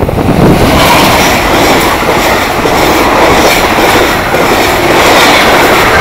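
Amtrak passenger train passing close by at speed: a loud, steady rush of wheels on the rails and wind, without the horn.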